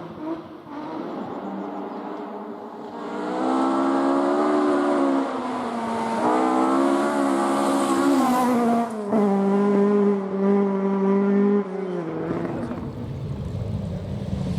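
Rally car engine accelerating hard through the gears, its pitch climbing and then dropping at each of about three upshifts as it nears. Near the end the sound turns rougher and deeper.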